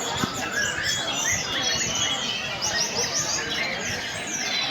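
Many caged tledekan gunung (Sunda robins) singing at once in a songbird contest, a dense overlapping chorus of quick high chirps and trills.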